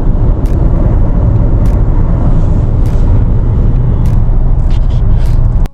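Steady loud rumble of road and wind noise in a moving car, with a few faint clicks; it cuts off abruptly at the end.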